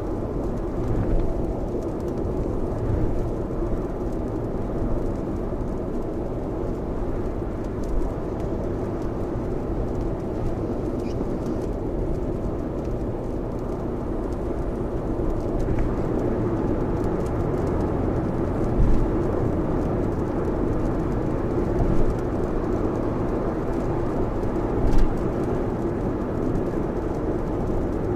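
Steady road and rain noise inside a Lexus RX's cabin at expressway speed in heavy rain: a low rumble with a hiss over it, and a few brief knocks in the second half.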